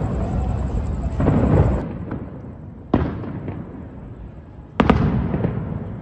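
Fireworks going off: a long rumbling burst at the start, then two sharp bangs about three and five seconds in, each trailing off in a rumble.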